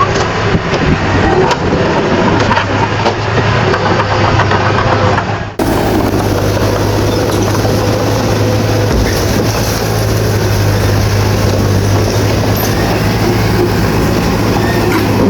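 Bulldozer's diesel engine running steadily with a low, even hum and mechanical clatter. About five and a half seconds in, the sound cuts abruptly to another stretch of the same kind of engine noise.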